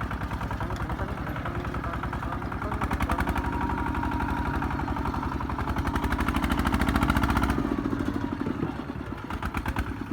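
Single-cylinder diesel engine of a công nông two-axle farm truck chugging under load with a fast, even beat. The revs build, then fall sharply about seven and a half seconds in to a slower, uneven chug.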